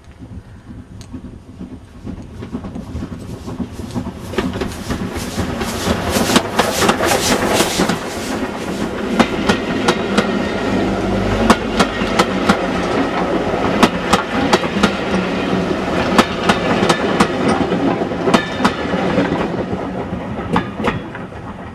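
Steam-hauled passenger train approaching and passing close by. The wheels click in a clickety-clack over the rail joints, building to a loud, steady rush as the coaches go past, with a brief low thump about halfway. The sound fades as the train draws away near the end.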